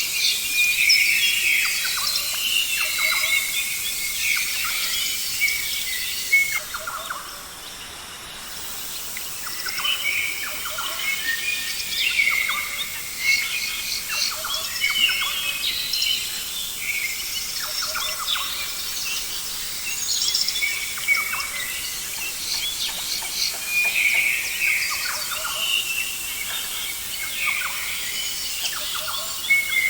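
Several birds chirping and trilling in many short, repeated calls over a steady background hiss, with a brief lull about seven seconds in.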